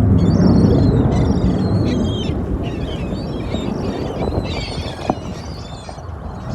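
A deep jet rumble fading steadily as the aircraft draws away, with birds chirping over it.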